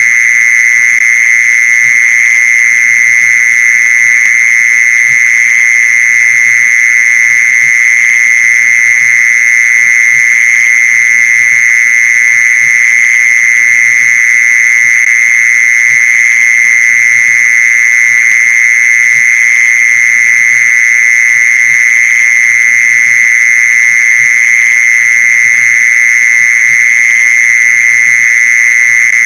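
Mole cricket song used as a lure call: one continuous, unbroken trill pitched near 2 kHz, loud and steady throughout.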